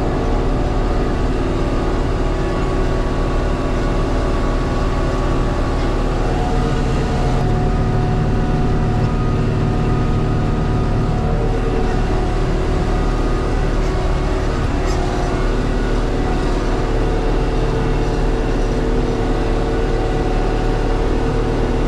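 Tractor engine running steadily, with a slight change in its low note about seven seconds in.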